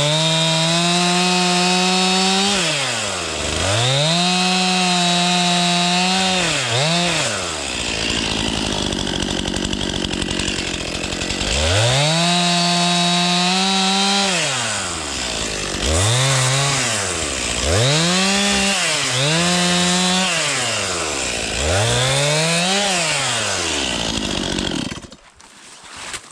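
Chainsaw cutting a dead tree. The engine revs up and holds high through each cut, then falls back between cuts, about seven times. It is shut off near the end.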